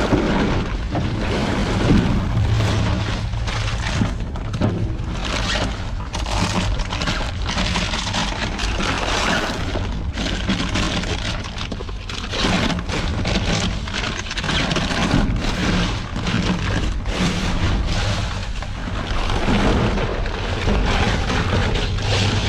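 Rummaging through trash in a dumpster: bags and items rustling, crinkling and knocking irregularly over a steady low rumble.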